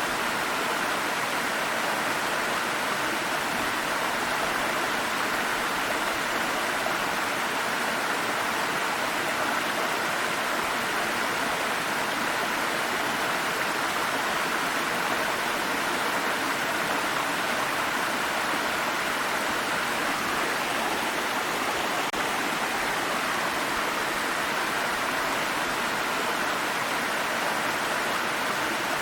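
Water stream running over stones, a steady rushing and babbling.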